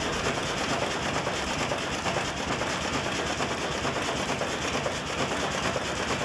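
1902 American LaFrance steam fire engine running under steam, its double-acting piston pump working in a steady, rapid chuff with a constant hiss.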